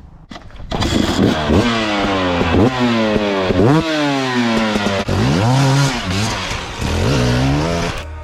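Dirt bike engine revving hard, starting about a second in. Its pitch climbs and falls back again and again as the throttle is worked.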